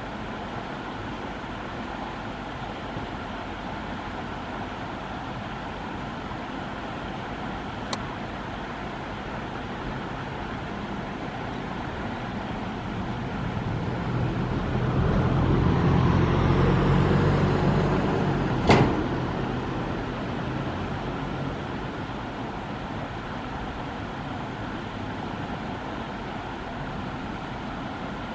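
Steady road traffic noise, with a motor vehicle passing close by that rises and fades over several seconds in the middle. Two sharp clicks, a light one about eight seconds in and a louder one near the end of the passing vehicle.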